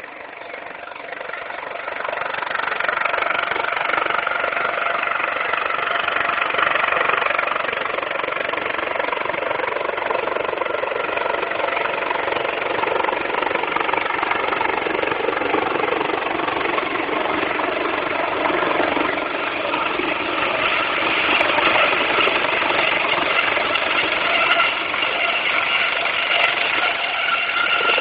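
Rescue helicopter's rotor and engine noise, growing louder over the first few seconds and then running steadily. Heard thin through a mobile phone's microphone.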